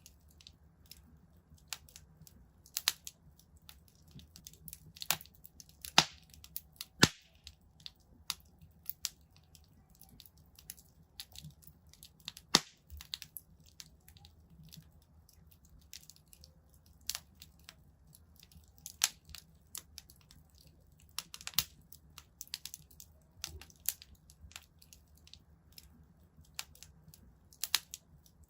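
Wood fire in a fireplace crackling, with irregular sharp pops and snaps of varying loudness over a low steady hum.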